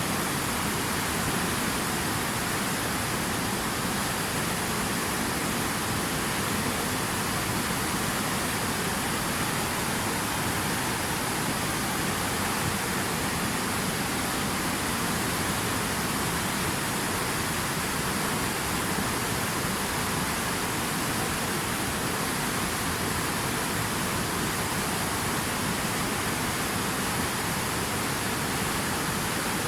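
Steady rushing water, an even hiss with no separate splashes or drops standing out.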